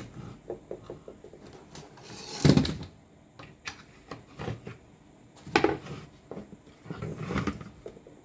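Hard tool parts being handled on a workbench: irregular clicks and knocks, with three louder clattering scrapes a little after two seconds, at about five and a half seconds, and around seven seconds.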